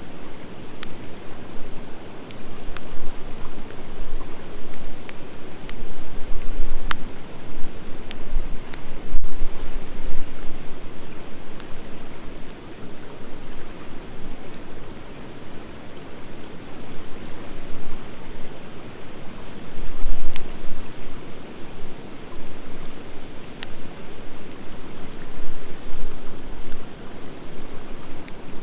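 Wood fire of driftwood and dry hardwood burning with a steady rushing hiss. Sharp crackles and pops break out irregularly, a dozen or so, from the dry hardwood.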